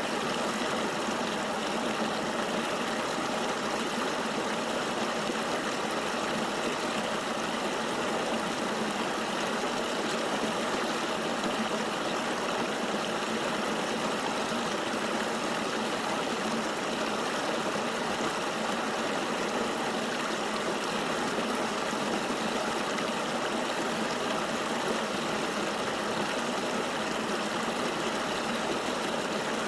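River water flowing over stones, a steady, even rush of water.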